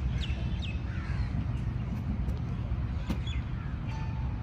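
Birds calling around a park: short, falling calls come and go throughout, over a steady low rumble.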